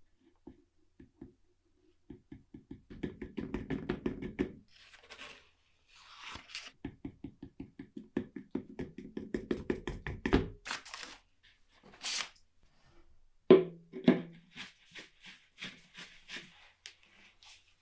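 Rapid runs of small mechanical clicks, several a second, with a few sharper knocks, from hand work on an old mechanical watch.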